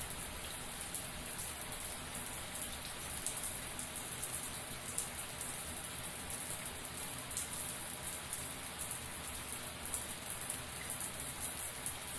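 Shower water spraying and splattering steadily, a dense hiss of fine drops hitting the surface below, with no change in flow.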